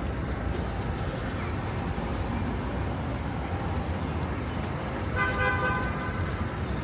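Steady street traffic noise, with one short car horn honk lasting under a second near the end.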